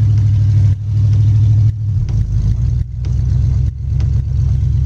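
A Jeep wagon's engine running under load, heard from inside the cab while it drives through snow. The engine sound drops briefly about once a second, four times, as the throttle eases off and comes back.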